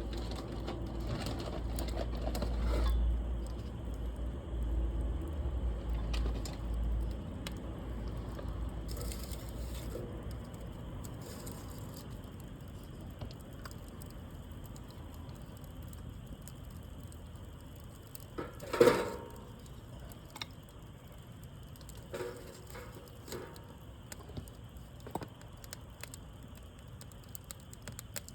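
Wood campfire crackling, with scattered small sharp pops and snaps throughout. One louder burst comes about two-thirds of the way through.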